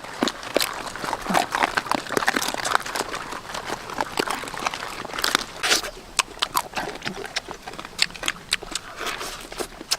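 A dog eating, with irregular sharp clicks and crunches of chewing.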